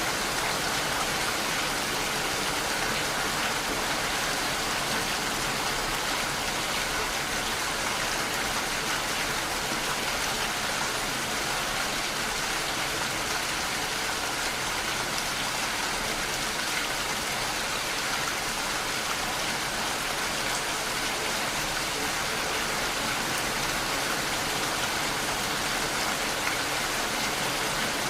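Steady rain falling, a dense even hiss of drops with no change or break.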